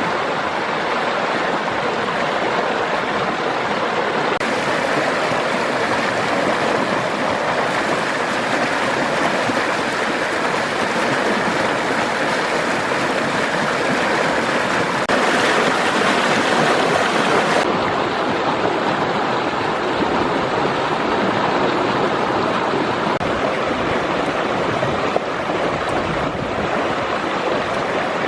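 Steady rush of flowing water, louder for a few seconds around the middle.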